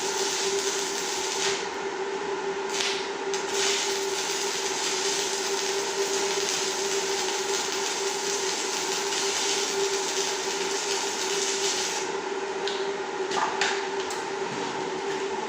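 Handheld electric power tool running steadily at a constant pitch with a hissing, grinding noise over it, winding down with a falling whine at the very end as it is switched off.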